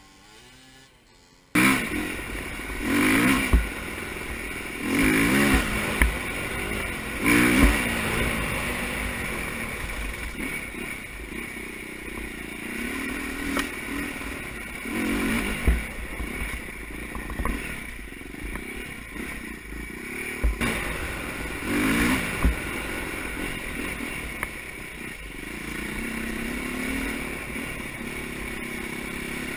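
Motocross dirt bike engines revving up and down in repeated rising and falling sweeps, starting suddenly about a second and a half in, with a few sharp knocks.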